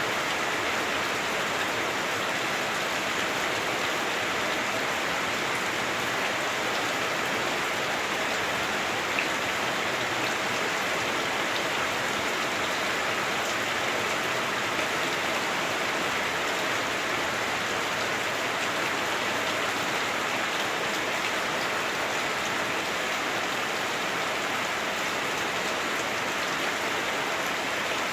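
Heavy rain beating on a house roof, heard from inside the house: a steady, even hiss of drops that does not change.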